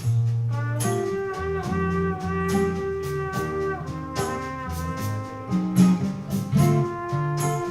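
Small jazz combo playing an instrumental break: a trumpet holds long notes over guitar and bass notes, with steady percussion hits.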